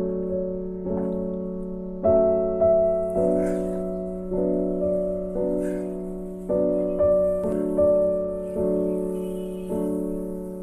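Background piano music, with notes and chords struck every half second to a second and left to fade.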